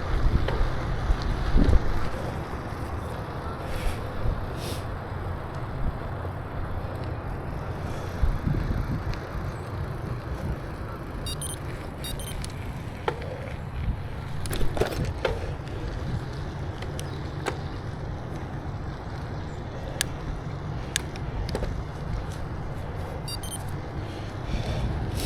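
Riding a bicycle: steady wind buffeting the microphone over the rumble of tyres on pavement, with scattered light clicks and rattles from the bike in the second half.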